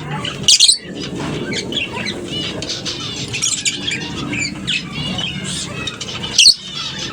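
A colony of lovebirds chattering, with many short high chirps and squeaks overlapping throughout. Two louder shrill calls stand out, about half a second in and near the end.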